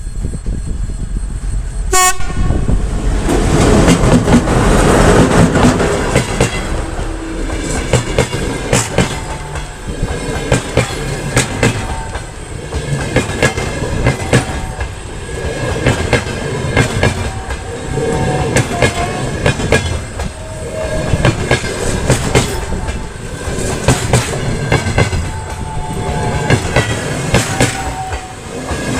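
A TEP70 diesel passenger locomotive, with its 16-cylinder engine, runs past at speed, loudest for a few seconds after about two seconds in. Its passenger coaches then roll by, the wheels clacking over the rail joints in groups that swell and fade about every two seconds.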